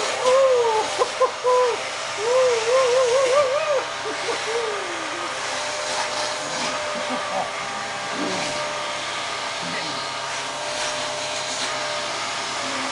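Vacuum cleaner running steadily with a constant whine. For about the first four seconds, a wavering, voice-like pitched sound rises and falls over it.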